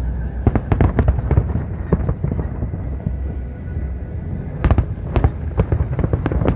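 Fireworks display exploding overhead: a rapid run of crackling bursts in the first second or so, then two louder bangs near the end, over a steady low rumble.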